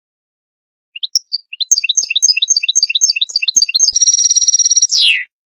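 European goldfinch singing, starting about a second in. A rapid series of high chirping notes, about four a second, is followed by a short buzzy trill and a falling slurred note, and the song cuts off suddenly.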